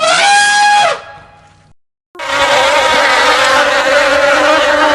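A short held call, about a second long, that drops in pitch at the end. After a brief silence comes a loud, steady buzzing, like a flying insect, lasting about three seconds.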